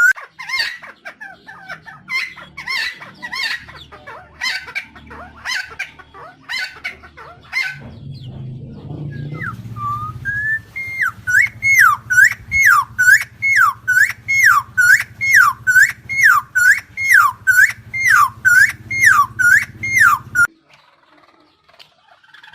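Helmeted friarbird calling in a fast series of loud notes, each one rising and then dropping, about two a second. After a short pause midway, a quicker run of calls follows and stops about two seconds before the end.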